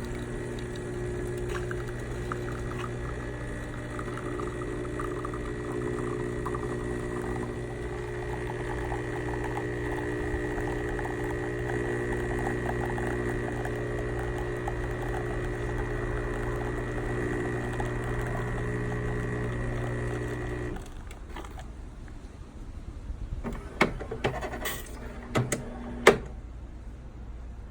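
Saeco Vienna De Luxe automatic espresso machine running through its brew cycle with a steady mechanical hum, which stops abruptly about 21 seconds in. A few sharp clicks and knocks follow near the end.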